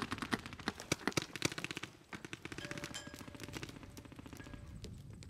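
Paintball markers firing rapid strings of shots, a fast rattle of sharp pops. About two seconds in the firing turns quieter and runs on as a fast, even rattle.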